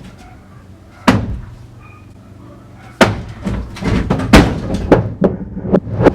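Hand demolition of a house's interior walls: one heavy blow about a second in, then from about three seconds a rapid run of repeated blows and crashing as wall material breaks and falls.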